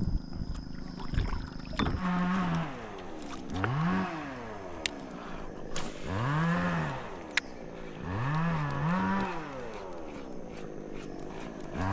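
Cattle mooing: about four drawn-out moos, each rising and then falling in pitch, with a few sharp clicks between them.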